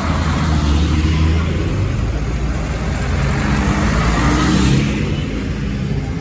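Tractor engine running as a tractor drives past, growing louder to a peak near the end and then fading a little.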